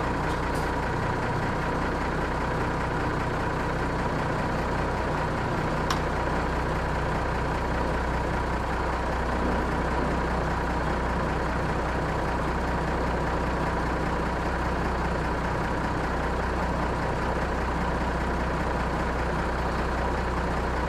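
Unimog 406's OM352 straight-six diesel idling steadily just after a cold start, with one brief click about six seconds in.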